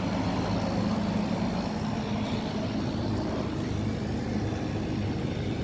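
Outdoor air-conditioner condensing units running: a steady low hum of fans and compressors.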